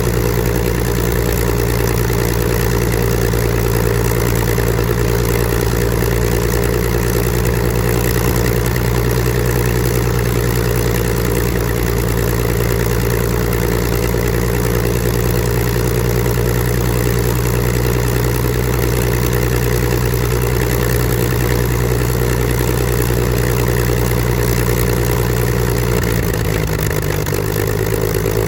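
Supermarine Spitfire Mk XIV's Rolls-Royce Griffon V12 engine and propeller running steadily in a ground run, dropping slightly in speed near the end.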